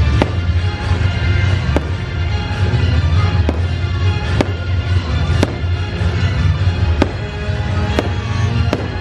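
Fireworks going off in sharp bangs about once a second over loud show music with a heavy bass.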